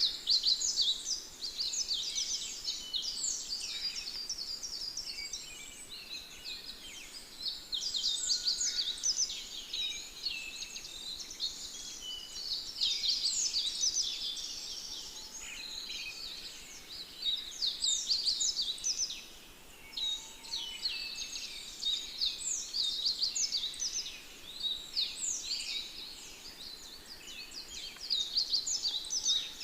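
Many small birds chirping and twittering at once in a dense, continuous chorus of quick, high notes.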